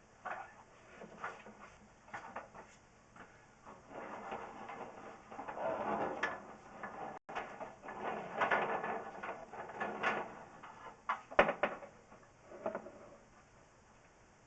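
Drain inspection camera being fed through a drain pipe, its push cable and head scraping and knocking irregularly against the pipe, with a few sharper knocks near the end.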